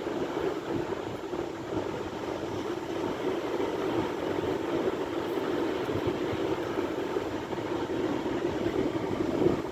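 Sea waves breaking: a steady rumble of surf with no single wave standing out.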